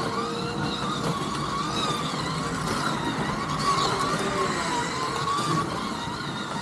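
Scalextric slot cars' small electric motors whining around the track, the pitch rising and falling as the cars speed up and slow through the corners.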